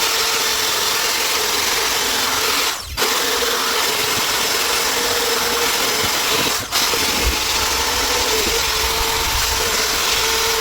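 A handheld power tool running steadily, with two brief breaks, about three seconds in and again past six seconds.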